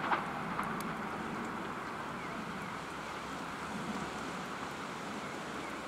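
Hyundai Rotem HRCS2 high-speed electric train approaching, a steady rushing rumble, with a sharp click right at the start.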